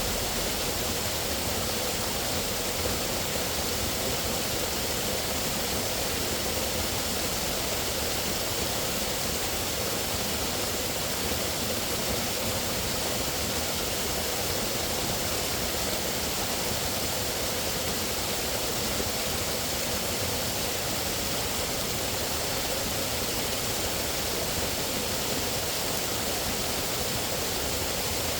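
A steady, unbroken rush of outdoor nature ambience, an even noise with no distinct events.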